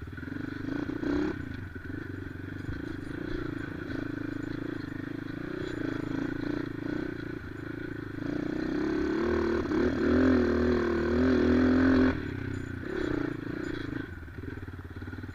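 Motorcycle engine pulling under load on a rough off-road climb. The engine note wavers and grows louder from about eight seconds in, then drops away abruptly about twelve seconds in as the throttle is closed.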